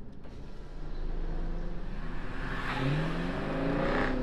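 A car engine running over a steady low rumble, then revving up, its pitch rising a little before the three-second mark and holding louder to the end.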